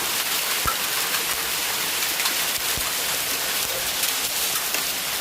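Hailstorm: hailstones and rain pelting down in a steady dense hiss, with scattered sharper hits of individual stones.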